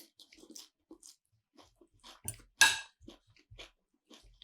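Close-miked chewing and crunching of food, a string of irregular short crackles with one louder crunch a little past halfway.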